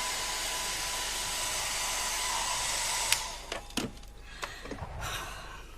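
Handheld hair dryer blowing with a steady hiss, switched off with a click about three seconds in, followed by a few light knocks as it is handled and put down.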